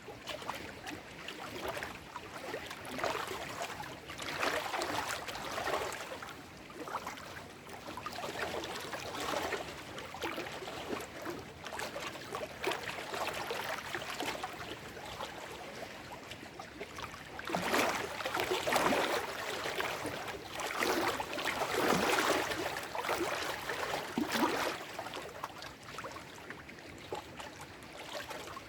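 Small lake waves lapping and washing over shoreline rocks in irregular, splashy surges, a few stronger ones coming a little past halfway.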